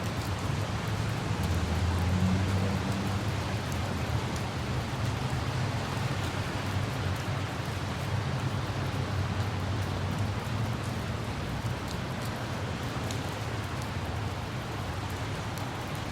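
Steady rain falling, with scattered sharp drop ticks over an even hiss and a low rumble underneath that is strongest in the first few seconds.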